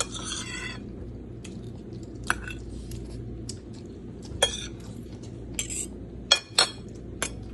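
Cutlery clinking and scraping against plates during a meal, with several sharp, scattered clinks, the loudest near the end.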